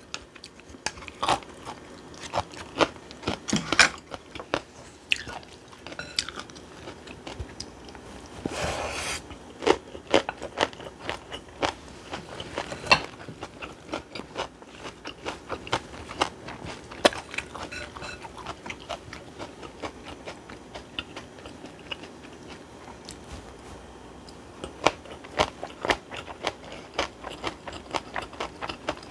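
Close-miked eating sounds: crunchy chewing with many short, sharp clicks, and a brief noisy swish about nine seconds in.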